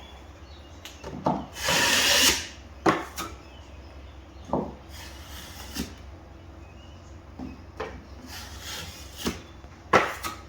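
A wide drywall blade scraping wet joint compound across the wall in separate strokes, the longest and loudest about two seconds in, with a few short sharp clicks of the blade between strokes, as the final coat over a crack repair is dragged off.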